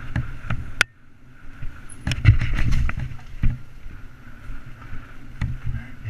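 Mountain bike running over a rough trail: a steady rumble of tyres on dirt and rock with the bike rattling, and sharp knocks from hits, thickest around two to three seconds in.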